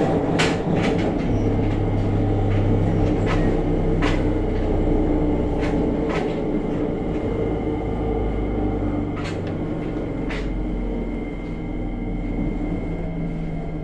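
Running noise inside a JR Kyushu 303 series EMU, heard above the motor bogie: a dense rumble with steady humming tones from the traction motor and scattered sharp clicks, easing slightly in loudness in the second half. The motor growl and heavy vibration are the known abnormal noise of this car, MoHa 303-1.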